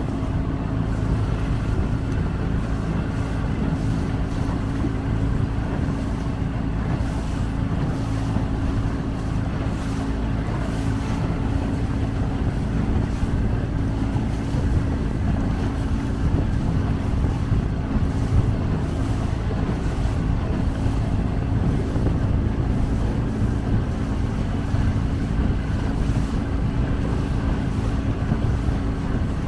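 Small motorboat's engine running steadily under way, with a constant low drone, mixed with wind buffeting the microphone and the rush of water.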